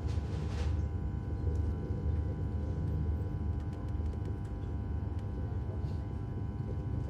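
Cabin sound of an intercity high-speed electric train running at speed: a steady low rumble from the running gear with a constant hum of several steady tones over it, and a brief hiss in the first second.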